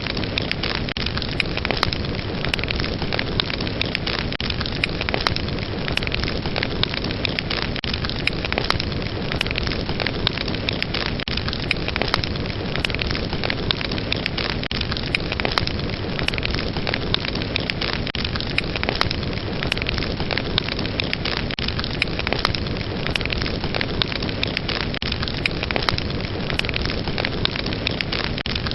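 Fire burning with crackling flames: a steady dense hiss with frequent sharp crackles and pops scattered throughout.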